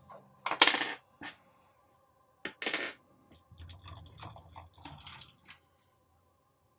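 Small hard plastic LEGO pieces clattering on a surface: two sharp clatters about half a second and two and a half seconds in, then a run of lighter clicks and rattles between about three and a half and five and a half seconds in.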